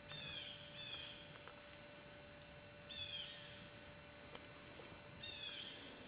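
A bird calling faintly: four short, slightly falling notes. The first two come close together, then one about three seconds in and one near the end.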